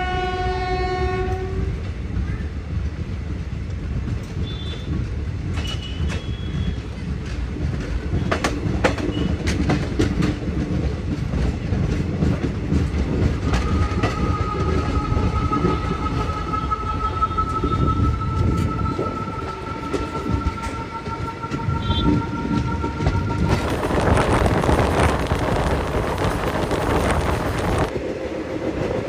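Indian Railways express train rumbling with clicks over the rails. A short horn blast sounds near the start, and a long two-tone horn sounds from about halfway for roughly ten seconds. A loud hissing rush of noise follows near the end.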